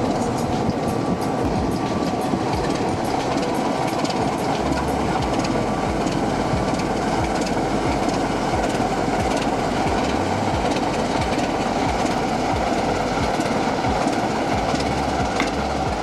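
OO gauge model diesel locomotives running on a layout: a steady motor-and-wheel running noise with repeated clicks of the wheels over the rail joints.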